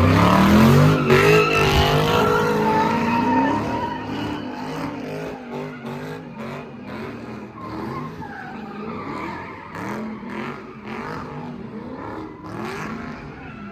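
A car doing a stunt, its engine revving up and down with tires squealing, loudest in the first few seconds and then fading off.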